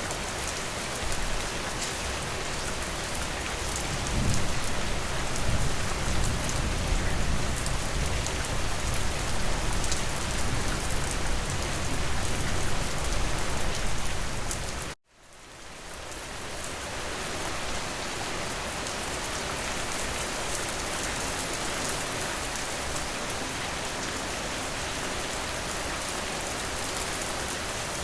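Steady rain falling, an even hiss. From about four seconds in, a low rumble swells underneath for roughly ten seconds. Around the middle, everything cuts out abruptly and the rain fades back in over a second or two, as at a loop restart.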